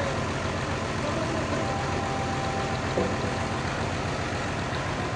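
An engine running steadily at idle, a low even rumble, with a single small knock about three seconds in.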